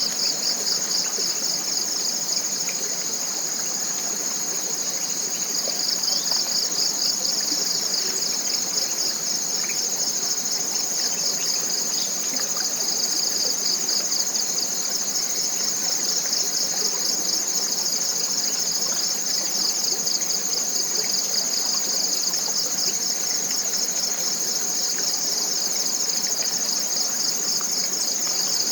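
A chorus of forest insects keeping up a steady, high-pitched pulsing drone, over the faint even rush of a small stream.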